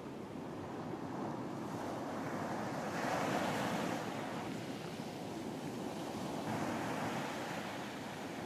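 Ocean surf breaking and washing onto a beach in a continuous hiss, with a wave surging up about three seconds in and another around seven seconds.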